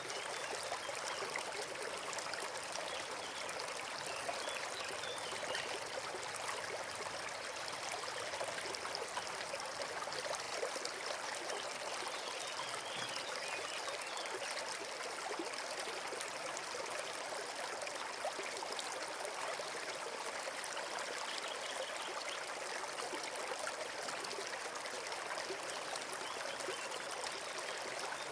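Forest stream flowing: a steady, unbroken babble and trickle of running water.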